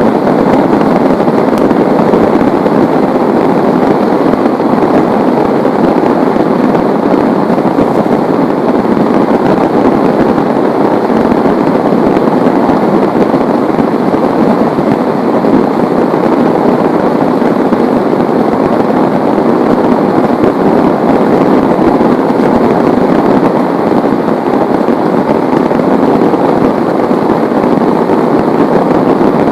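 Heavy rain pouring down steadily: a loud, dense, unbroken hiss and patter of drops.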